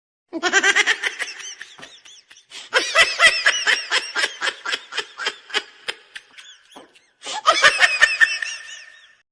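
A person laughing hard in three long bouts of rapid, pulsed ha-ha bursts, about four or five a second, with short pauses between bouts.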